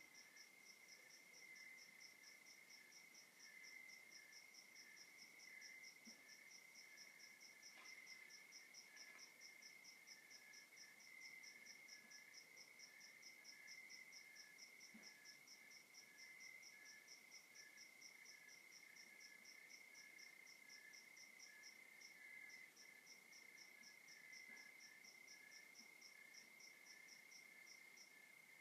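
Crickets and other night insects calling together, faint. One steady high trill runs on, with a faster, regular chirping above it and a slower pulsing call just beneath it.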